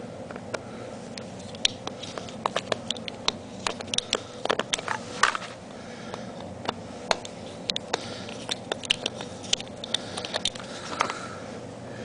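Irregular small clicks and taps of a screwdriver and fingers working on the plastic shell of an audio cassette tape, taking it apart.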